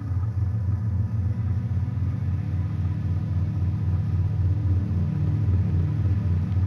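King Drone analog synth's triangle-wave oscillators droning low through its low-pass filter, a dense steady drone that pulses quickly and evenly.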